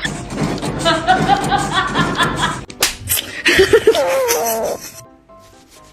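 Background music with comedy sound effects and laughter, including a sharp slap-like hit about halfway through and a wobbling tone soon after.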